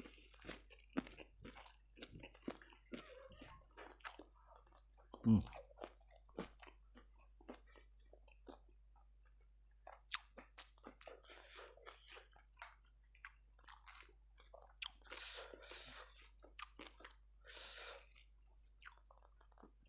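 Close-up chewing and crunching of fried chicken: many short, irregular crunches and mouth noises, with a few longer noisy stretches near the end.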